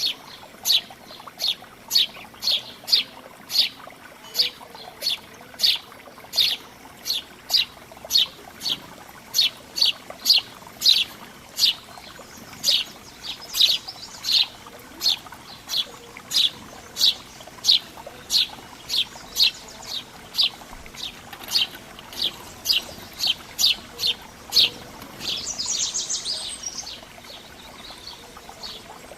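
A songbird calling with a short, high, downward-slurred chirp repeated steadily about twice a second, joined near the end by a brief, denser high trill.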